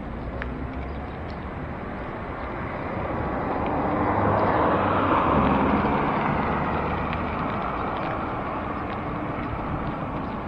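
Road traffic heard from a moving bicycle: a steady rush of noise that swells to a peak about five seconds in as a motor vehicle passes close, then eases off.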